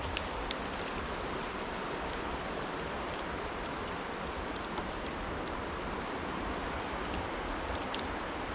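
Wet snow falling steadily in a snowstorm: an even hiss with scattered small ticks of flakes and drips landing on surfaces.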